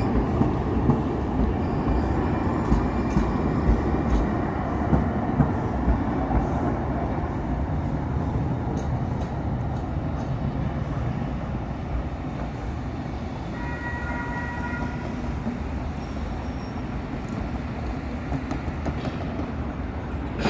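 SacRT light rail train running on the track, a steady rumble with regular wheel clicks over the first few seconds, slowly fading. A short pitched tone sounds briefly about two-thirds of the way through.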